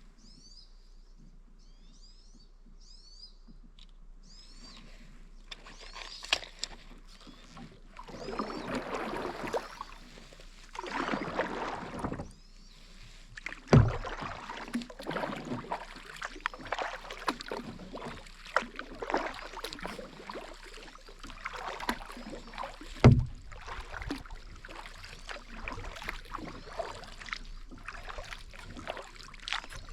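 Kayak paddle strokes: repeated swishing splashes of the blades through the water. Twice there is a sharp knock. A few short, high bird chirps come before the paddling starts.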